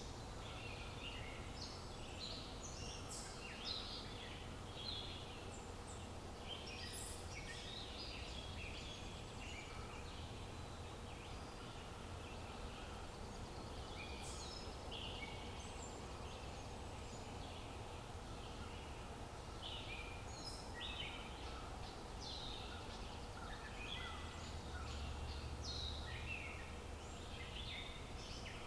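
Many small songbirds chirping in quick, overlapping calls over a steady low outdoor background hiss.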